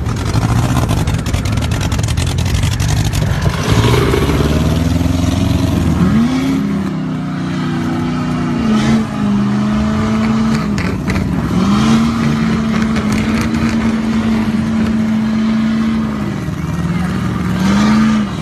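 A small Chevrolet Cavalier's engine revving hard under load as it tows a pickup stuck in the mud on a tow strap. A heavy low rumble at first gives way, about four seconds in, to a steady high engine note that drops and climbs back up several times.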